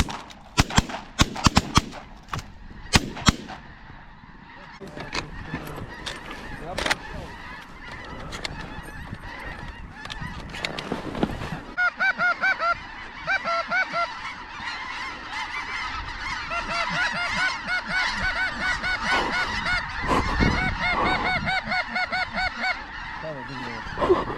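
A quick run of shotgun shots in the first few seconds, over a large flock of snow geese calling. The geese's calling grows louder and denser from about halfway through.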